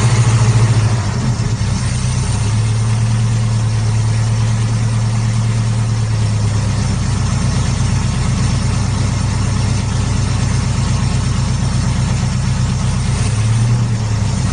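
1949 Studebaker truck's engine idling steadily, a little louder in the first second before it settles. It is running on a carburetor bowl filled by hand, because the owner suspects a tired fuel pump that only delivers at high RPM.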